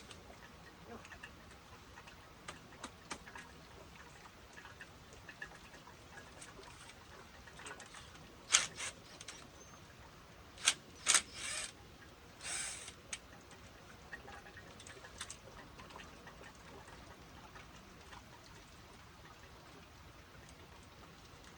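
Hand work on a pool pump motor being removed: scattered faint clicks, then a handful of sharp knocks and a short scrape about eight to thirteen seconds in.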